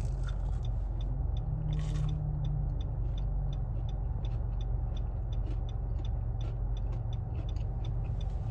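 Car engine idling, a steady low rumble heard from inside the cabin, with a regular light ticking over it. A chicken nugget is being chewed softly.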